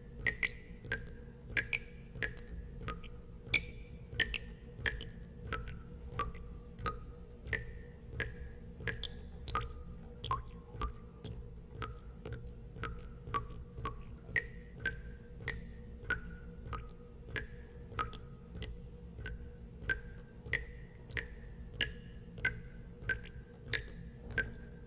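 Water drops falling one after another into water, each a sharp plink with a short ringing tone whose pitch changes from drop to drop, about one and a half to two drops a second at uneven spacing, over a steady low hum.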